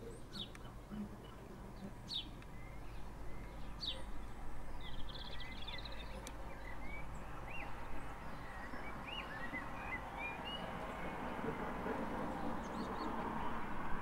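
Small birds calling: three thin, high, falling calls about two seconds apart, a short rattle, then a run of quick chirps. A steady background hum grows louder toward the end.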